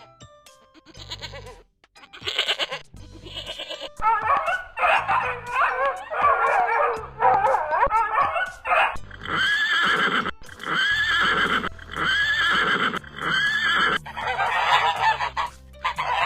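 A run of different farm animal calls over background music: a dense stretch of wavering calls, then four similar calls about a second apart, each rising and falling in pitch.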